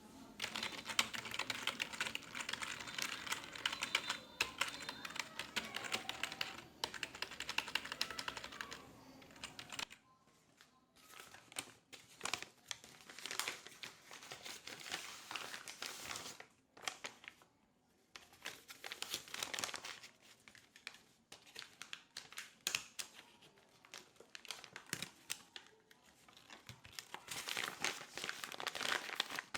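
Computer keyboard typing: a fast, continuous clatter of keystrokes for roughly the first ten seconds, then shorter bursts of typing with brief pauses between them.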